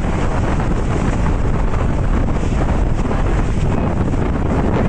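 Strong storm wind buffeting the microphone: a loud, steady rush of noise heaviest in the low end, with no break.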